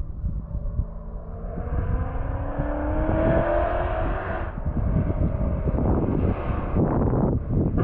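Ford Mustang's Coyote 5.0 V8 with long-tube headers, accelerating hard. The exhaust note climbs in pitch for about three seconds, breaks off and drops about halfway through, then carries on lower and rougher with crackling.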